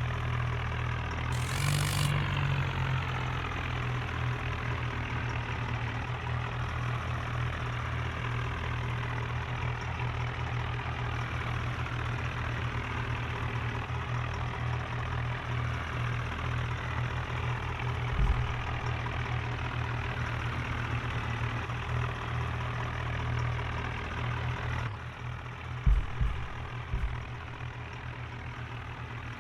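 Swaraj 963 FE tractor's diesel engine running steadily, with a short hiss about two seconds in. A low thump comes in the middle, the engine eases off slightly near the end, and a few more thumps follow.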